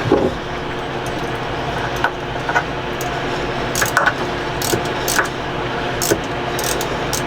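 Hand tools and metal fittings clinking and clicking, short irregular taps, during work on a boat's air-conditioning sea strainer plumbing, over a steady low hum.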